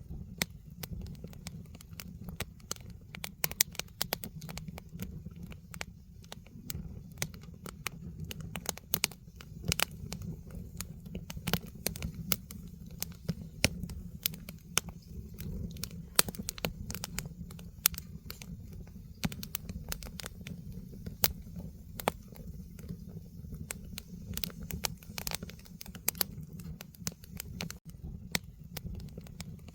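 Firewood burning in a fire pit, crackling with irregular sharp pops and snaps over a steady low rumble.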